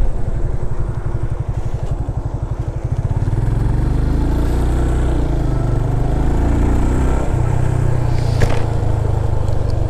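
Motorcycle engine running while the bike is ridden, heard from the rider's seat: a steady low pulsing at first, then louder and fuller from about three seconds in, its pitch shifting.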